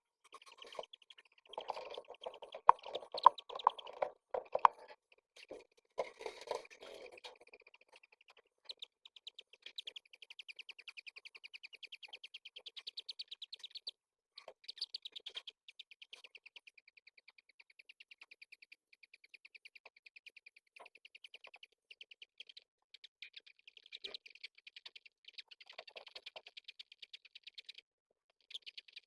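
Pigeon squabs giving rapid, high begging peeps, a fast run of squeaks that goes on for many seconds with short breaks. During the first several seconds, louder scuffling and sharp knocks lie under the calls.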